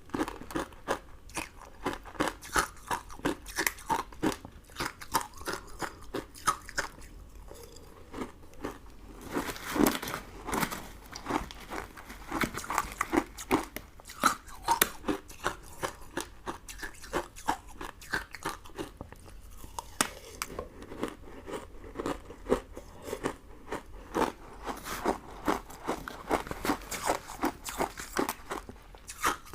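Close-miked eating sounds: a person biting and chewing crunchy sugar candy, with rapid crisp crunches and crackles that come in bursts and ease off briefly a couple of times.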